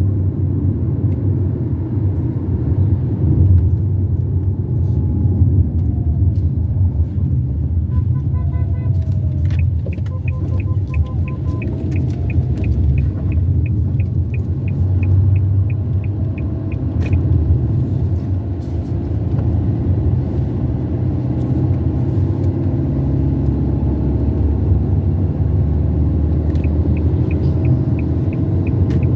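A car driving along a highway: a steady, low road rumble of engine and tyres. A run of quick ticks, about three a second, comes in about ten seconds in for several seconds and again near the end.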